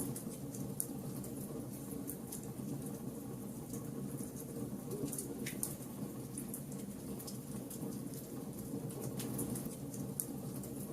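Wood fire burning with a steady low rush of flames and frequent irregular crackles and pops from the burning wood.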